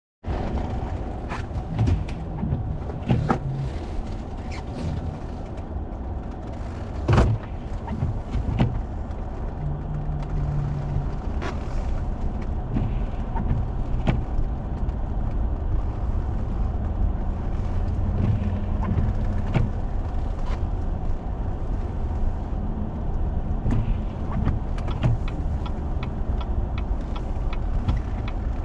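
A 4x4 vehicle driving on a snow-covered road: a steady low rumble with many scattered clicks and knocks, one sharper knock about seven seconds in.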